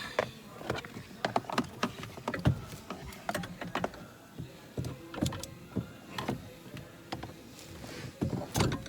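Irregular knocks, clicks and clunks of a steering column assembly being handled and worked into its mounting under the dash, metal and plastic parts striking one another.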